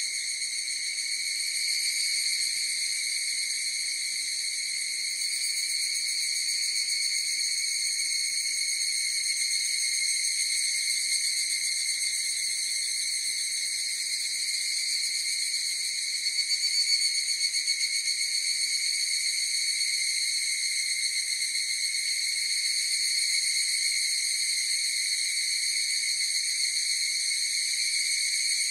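A chorus of higurashi (evening cicadas, Tanna japonensis) calling without a break, a steady high ringing that swells slightly about halfway through.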